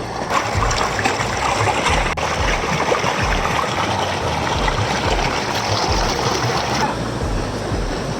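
Waterfall water rushing in a steady, loud roar that drops off abruptly near the end.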